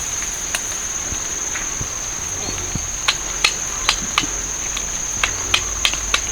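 A steady high-pitched drone of insects, with a series of sharp, irregular knocks that grow more frequent after about three seconds.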